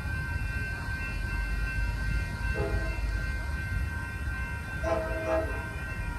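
Multi-chime air horn of an approaching passenger train sounding two blasts over a steady low rumble: a short one just under three seconds in, and a longer one, briefly broken, about five seconds in.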